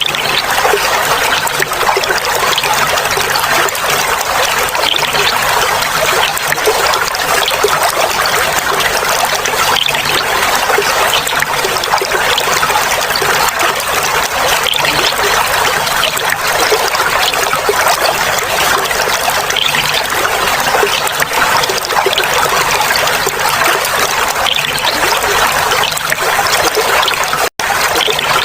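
Clear running water trickling and babbling steadily. It cuts out for an instant about a second before the end.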